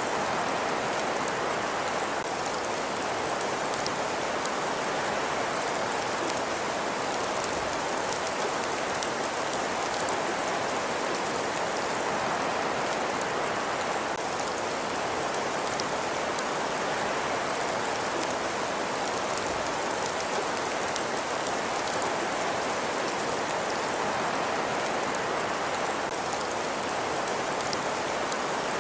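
Fireplace ambience: a steady, even rush of noise with faint, scattered crackles from the fire.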